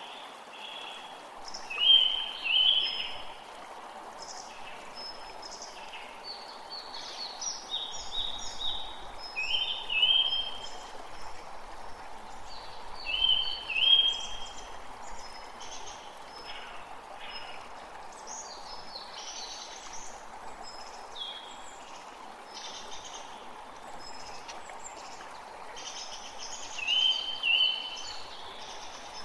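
Forest creek water running steadily, with songbirds singing over it: one bird repeats a short, loud phrase about five times while others chirp more faintly and higher.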